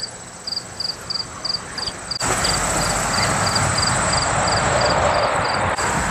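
A cricket chirping steadily, about three chirps a second. About two seconds in, a louder steady rushing noise starts abruptly underneath it.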